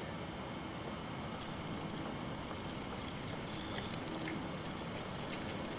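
Child's bicycle rolling, rattling with a run of quick irregular clicks and ticks that begins about a second in.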